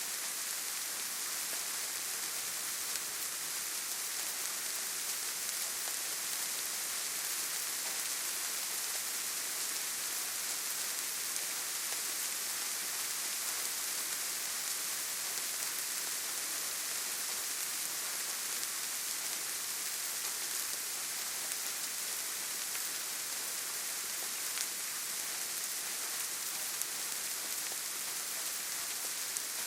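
Steady rain falling on leaves and forest ground: an even hiss with faint scattered drop ticks.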